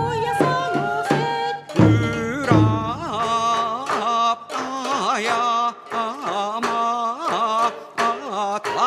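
Japanese ondo folk music for bon dancing: heavy drum strokes in the first few seconds, then a wavering, melismatic held melody with strong vibrato.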